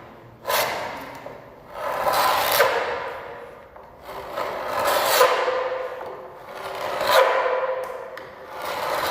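A scraper dragged over a wooden door, lifting paint softened by chemical stripper gel. About five long scraping strokes, roughly one every two seconds.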